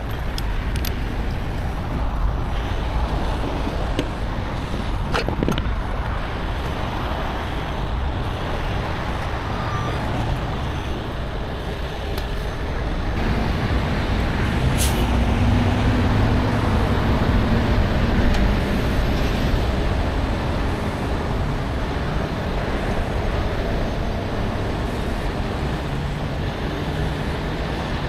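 Heavy truck engine running amid steady road and traffic noise, its note growing louder for a few seconds in the middle. A short sharp sound is heard about fifteen seconds in.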